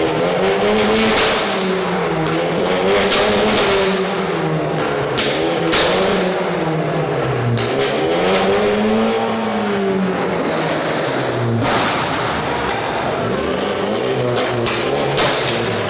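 A car engine revving up and down over and over, its pitch rising and falling about every two seconds, with a few sharp cracks in between.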